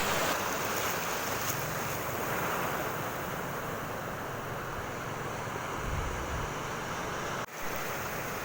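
Sea waves washing onto a beach, a steady rushing surf with wind buffeting the microphone.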